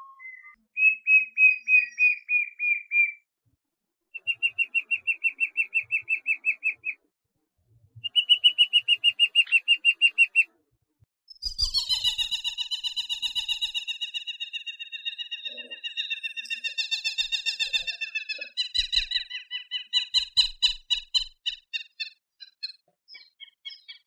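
Bird song: three rapid, pulsing trills of two to three seconds each at a steady high pitch, then a longer, louder trilled phrase sounding several tones at once, followed by a run of quick repeated chips.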